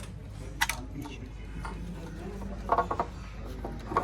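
Metal clinks and clanks of hand tools and parts being handled: one sharp clink about half a second in, a quick cluster near three seconds and another near the end, over a steady low hum.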